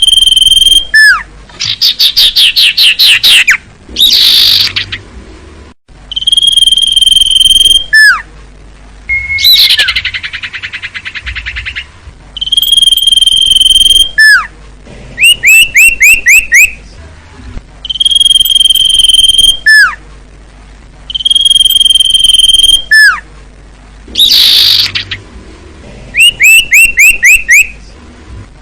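Looped recording of common iora (cipoh) calls: a long steady high whistle ending in a short down-slurred note, followed by rapid chattering trills. The sequence repeats several times, played loud as a bird-training track.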